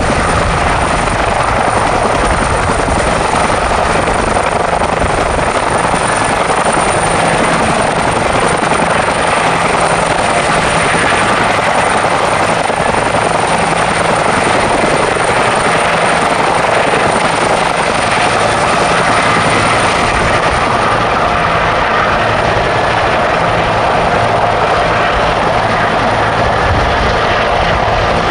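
Helicopters running steadily, the rotors and turbine engines making a continuous loud noise with a thin high whine.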